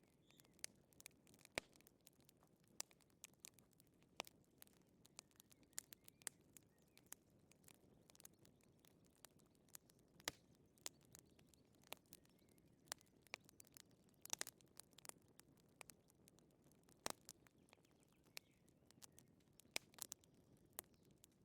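Wood fire crackling: sharp, irregular pops and snaps scattered at random over a faint low rush.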